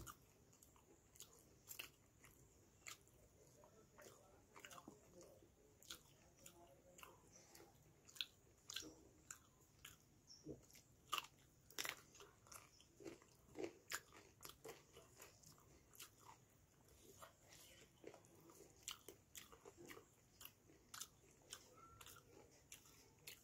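A person chewing rice and chicken curry, eaten by hand: irregular short mouth clicks and smacks, a few a second.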